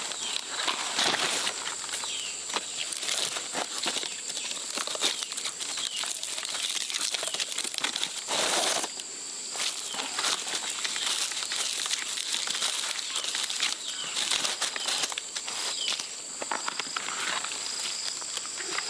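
Rustling and crackling of leaves and twigs being handled or stepped through, with a longer rustle about halfway, over a steady high drone of insects.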